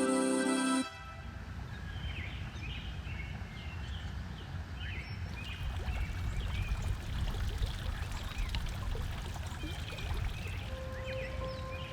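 Music cuts off about a second in, leaving outdoor ambience: a steady low rushing noise with birds chirping in short, repeated calls. A steady held tone comes in near the end.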